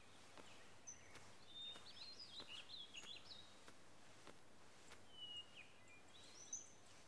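Faint birds chirping in two short spells of twittering over a near-silent outdoor background, with a few faint scattered ticks.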